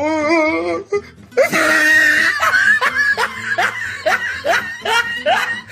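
Meme laugh sound effect: a quavering, wobbling voice in the first second, then a person laughing in a run of short rising "ha"s, about two or three a second.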